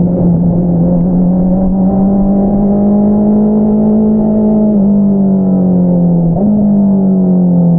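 2022 Honda CBR650R inline-four engine running through an Akrapovič single-outlet exhaust under steady throttle. The pitch creeps up, dips a little about two-thirds of the way in, jumps back up soon after, and starts to fall near the end as the throttle eases.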